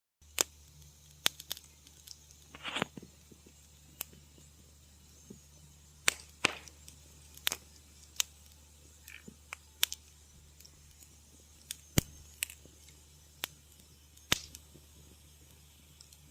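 Wood fire crackling in a fireplace: irregular sharp pops and snaps, about a dozen loud ones, over a faint steady low hum.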